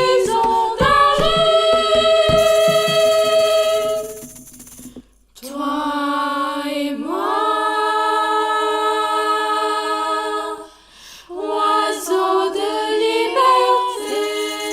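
Small group of teenage voices singing a cappella, holding long sustained chords with brief breaks between them and a few moving notes before the last chord.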